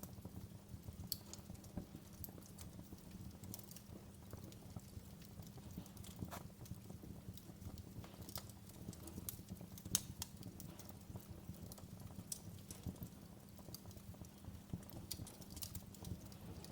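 Wood fire crackling: irregular sharp pops and snaps over a steady low rumble, with the loudest pop about ten seconds in.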